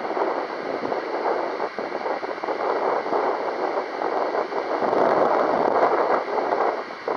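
Strong gusty wind buffeting the microphone: a loud rushing noise that swells and eases with the gusts, strongest a little past the middle.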